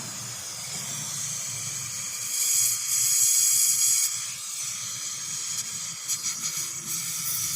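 Gas brazing torch flame hissing steadily while being adjusted, louder for a couple of seconds about two seconds in.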